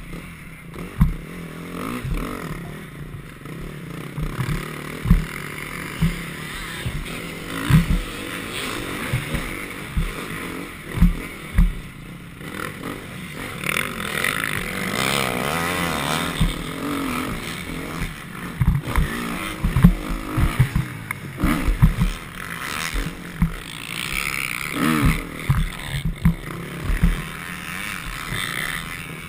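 Motocross bike engine riding round a dirt track, its revs rising and falling, with frequent short low thumps over it.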